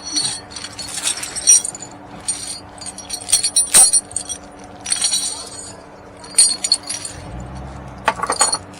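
Small metal pieces jingling and clinking in about six short bursts spread over several seconds, over a faint steady hum.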